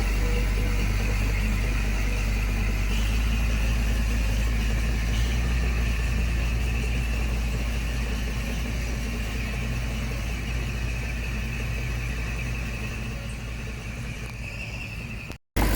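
Diesel engine of a heavy construction machine running steadily at a low pitch, slowly getting quieter over the last few seconds, then cut off abruptly for a moment just before the end.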